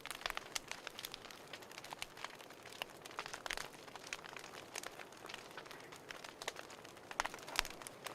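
Fireplace fire crackling: irregular sharp pops and snaps over a soft hiss, with a few louder snaps near the end.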